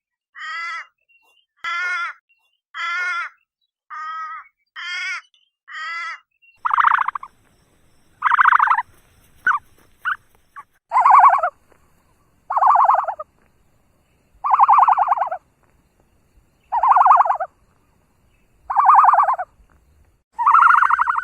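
Animal calls: short wavering calls about once a second, then from about six seconds in, longer and louder harsh calls about every two seconds.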